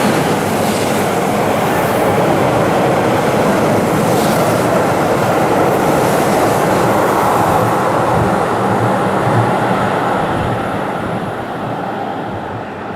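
Keihan 3000 series electric train running steadily, its noise easing off over the last few seconds.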